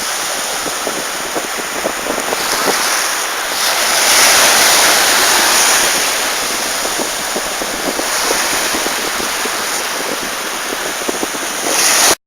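Sea surf washing onto the beach, a steady hiss with fine crackling foam that swells about four seconds in, with some wind on the microphone.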